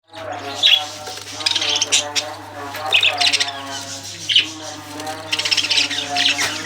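Parrots squawking and chirping: a run of short, shrill calls in clusters about every second, over a steady low electrical hum.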